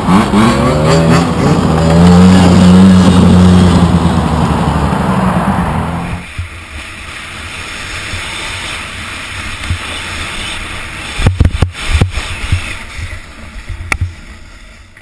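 Dirt bike engine running and revving, rising and falling in pitch, for about six seconds, then cutting off suddenly to a quieter rushing background with a few sharp knocks.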